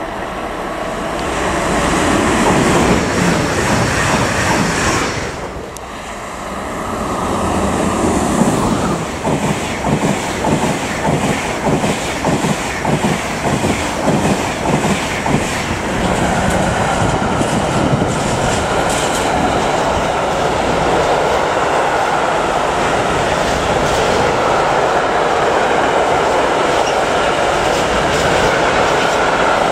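Trains passing close by at speed. Passenger coaches clatter past with a fast, even clickety-clack of wheels over the rail joints. Then a long freight train of hopper wagons rolls by with a steady rumble and a thin high wheel whine.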